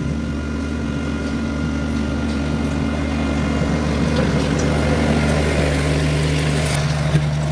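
A compact diesel work machine's engine running steadily, a low, even drone.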